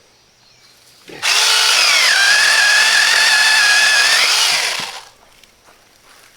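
Small chainsaw revving up and cutting through a branch, its pitch dropping under load for about two seconds, then rising as it clears the cut and winding down.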